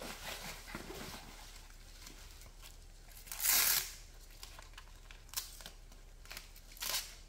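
Hook-and-loop straps of a dog knee brace being ripped open and handled: one loud rip about three and a half seconds in, with shorter rips and rustling around it.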